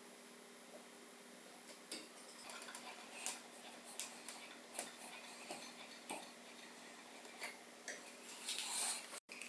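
Faint, scattered clicks and light metallic taps of small parts being handled during hand work on an angle grinder, with a short scraping rustle near the end.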